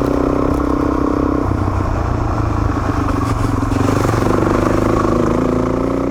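Off-road motorcycle engine running under way, its pitch shifting a couple of times as the throttle and gears change.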